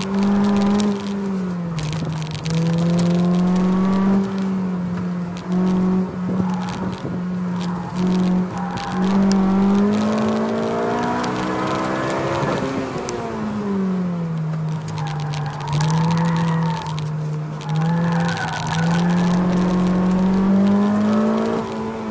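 2007 Honda Civic Si's 2.0-litre four-cylinder engine revving hard, heard from inside the cabin. The note holds high, drops as the car slows for turns about two seconds in and again around the middle, then climbs back, with scattered sharp clicks throughout.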